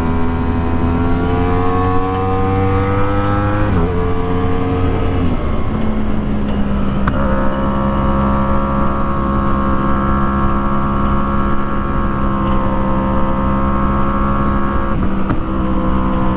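Sport motorcycle engine under way, its pitch climbing steadily as it accelerates. The pitch breaks and drops at gear changes about four seconds in and again about seven seconds in, then the engine holds a steady pitch at cruise.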